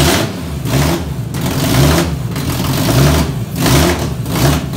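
Swapped Toyota 1JZ straight-six in a BMW E46 drift car, running loud with the revs rising and falling over and over, about once a second, as the throttle is blipped.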